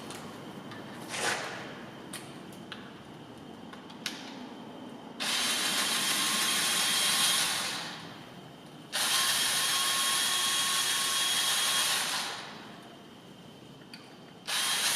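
A drill runs three times in bursts of about three seconds, each starting sharply and winding down, as it backs out bolts on the engine case of a Honda CB300R motorcycle during an oil change. Light handling knocks come before the first run.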